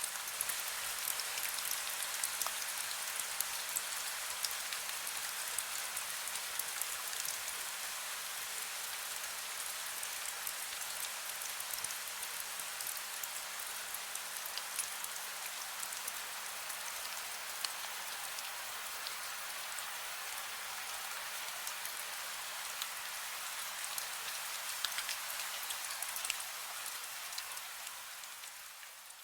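Heavy rain: a steady dense hiss with many fine drop ticks, fading out near the end.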